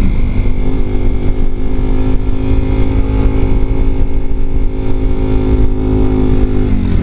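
Honda Varadero 125's V-twin engine running under load at fairly constant revs while riding. Near the end the revs drop sharply and pick up again, the throttle shut briefly for a clutchless upshift.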